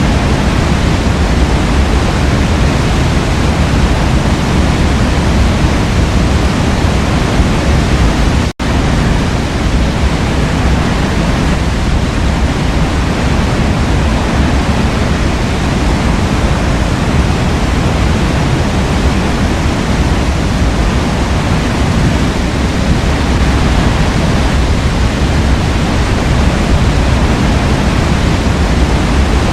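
Waterfall rushing in a steady, loud, even roar of falling water, with a momentary dropout about eight and a half seconds in.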